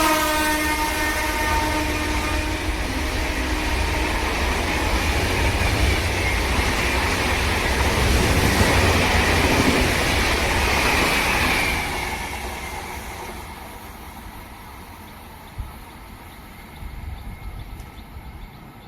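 Electric train passing at speed: a horn fades out in the opening second or two, then a loud rushing rumble of wheels on rails that dies away after about twelve seconds.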